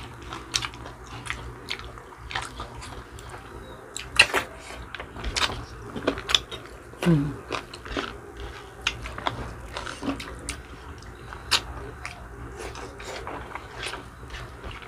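Close-up mouth sounds of people eating chicken feet adobo with their hands: wet chewing, lip smacks and sucking clicks as the meat is gnawed off the many small bones, with a brief vocal sound about seven seconds in.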